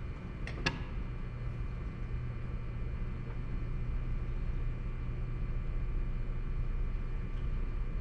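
Steady low machinery hum in a woodshop, with two light clicks close together about half a second in.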